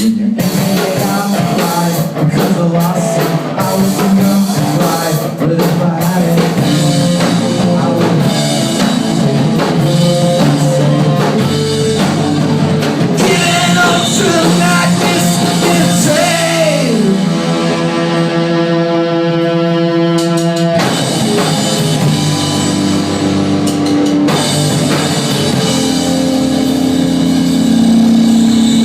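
Rock band playing live on electric guitars, bass and drum kit. About two-thirds through, a guitar slides down in pitch into a held chord that cuts off suddenly, and the full band comes back in.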